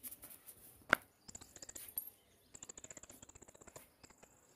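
A small bird chirping in two rapid, high trills, with a single sharp click about a second in.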